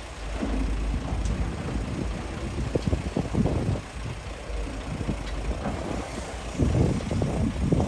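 Hydraulic excavator's diesel engine working under load: a steady low rumble with uneven surges, loudest near the end.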